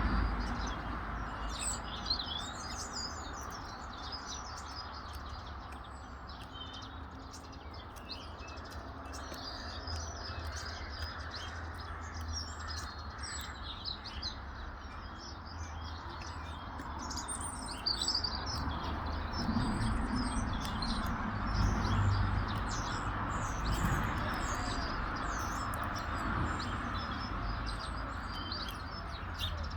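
Many small birds chirping and tweeting in quick, overlapping calls, over a steady background hiss and low rumble.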